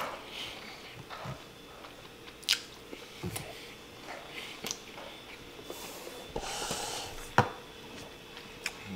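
A person chewing a mouthful of food close to the microphone, with soft mouth sounds and a few sharp clicks, the loudest about seven seconds in.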